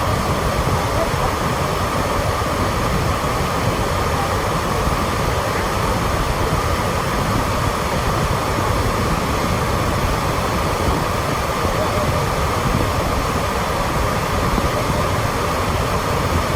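Låtefossen, a large twin waterfall, rushing steadily: an unbroken rush of falling water with a deep rumble underneath.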